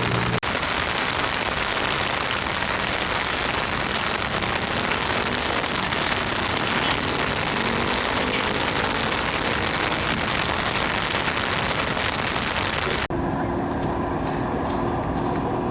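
Street traffic noise: a steady hiss of passing vehicles and tyres, with an engine rising in pitch about halfway through. About 13 s in the sound cuts to a duller, steadier engine hum.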